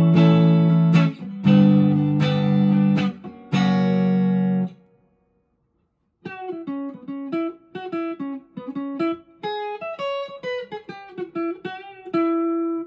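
PRS SE McCarty 594 electric guitar on its neck pickup, coil-split to single-coil, played clean through a Vox AC10 amp. It starts with a few ringing strummed chords, goes silent for about a second and a half, then plays a picked single-note melody that ends on a held note.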